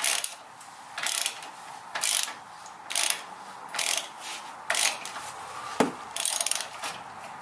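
Hand ratchet wrench clicking in short strokes, about one a second, as a bolt is worked loose to remove the brake line bracket.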